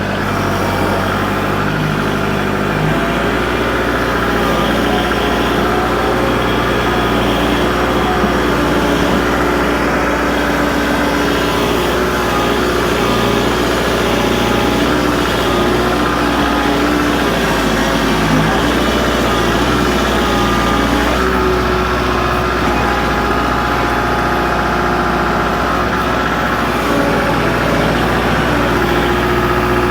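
Kubota L47 backhoe-loader's diesel engine idling steadily while warming up after a cold spell, its note shifting slightly about three seconds in.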